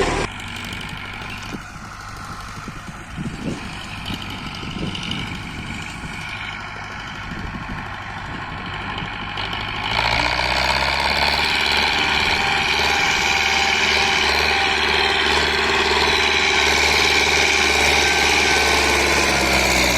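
Tractor's diesel engine running steadily, suddenly louder from about halfway through.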